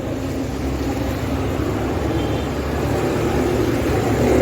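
Steady low rumble of a running vehicle engine, growing slightly louder.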